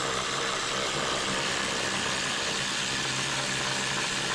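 A power tool running steadily at constant speed, a hiss with a low hum, held without a break.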